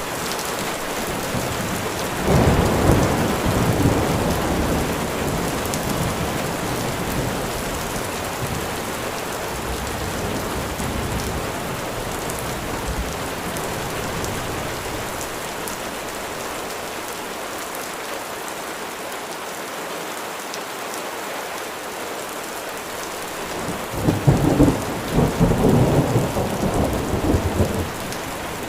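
Steady rainfall with drops pattering on surfaces. Two rolls of thunder swell over it, one about two seconds in that fades slowly and another near the end.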